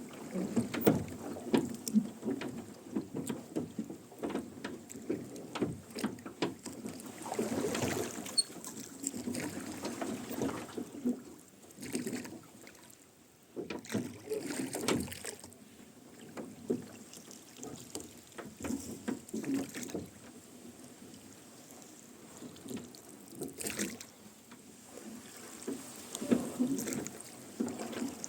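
Rowboat being rowed, with the oars creaking in their oarlocks and the blades splashing in the water in repeated strokes. The strokes are sparser and quieter midway, then pick up again near the end.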